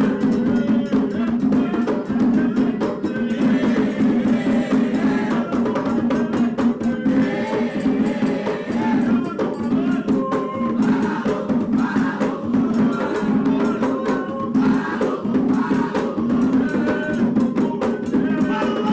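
Candomblé drumming in a steady, dense rhythm, with the rum (the lead atabaque drum) playing under group singing.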